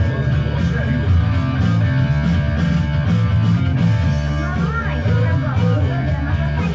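Rock music with distorted electric guitar and drums, a sung vocal line coming in about halfway through.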